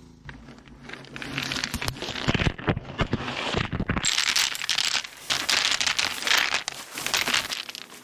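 Water rinsing over freshly cast concrete while extruded polystyrene foam mold pieces are broken and pulled off it, a steady spraying hiss full of crackling, crinkling and tearing. It grows louder about four seconds in and stops just before the end.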